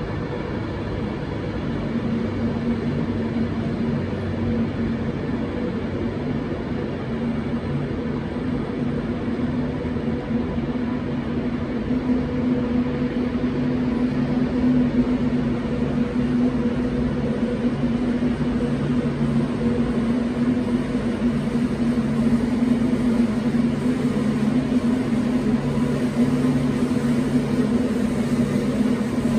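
Steady low drone and hum of a train standing at the station, its engine or traction equipment running; it grows a little louder about two seconds in and holds steady.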